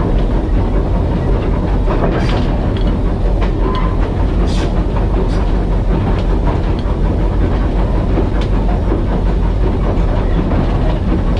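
Steam locomotive running along the line, heard from the footplate: a steady heavy rumble with scattered light clicks and knocks from the wheels and motion.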